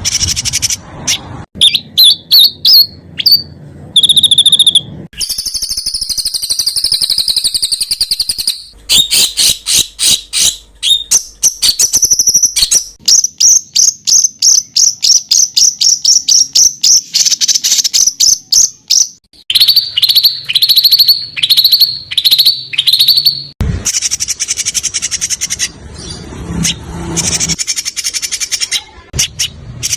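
Songbirds singing loud, fast runs of sharp repeated notes ('tembakan' phrases), spliced from several recordings with abrupt cuts between them. About twenty seconds in, a run of falling notes repeats several times.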